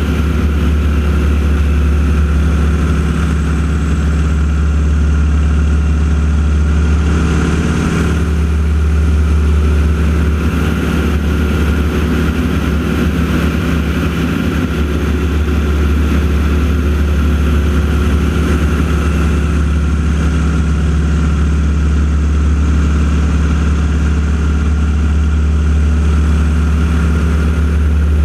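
Radial piston engines of North American T-6 Texan aerobatic planes, a steady, loud engine drone as they fly the display routine.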